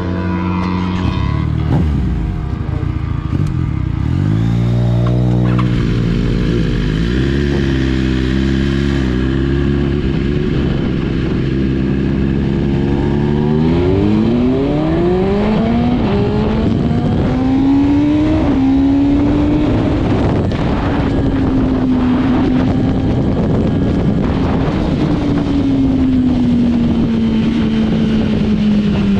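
Motorcycle engine running under the rider's throttle: its pitch dips and shifts in the first seconds, climbs steadily as the bike accelerates about halfway through, then holds its revs and eases gradually down near the end.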